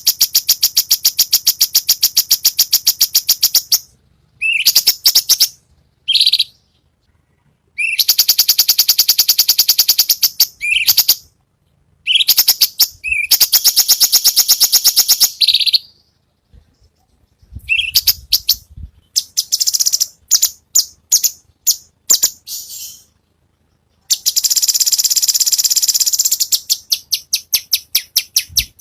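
Cucak cungkok singing its 'besetan': long, very fast, harsh rattling trills a few seconds each, with pauses between them and shorter scattered calls in the middle. Near the end a trill slows into evenly repeated notes, and a brief low rumble sits under the calls about two thirds of the way in.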